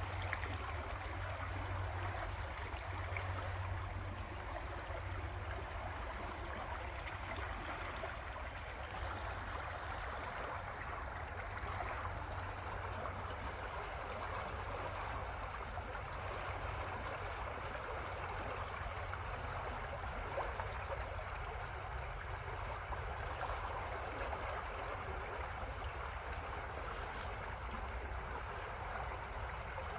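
River water running steadily: a continuous, even rushing, with a low steady rumble underneath.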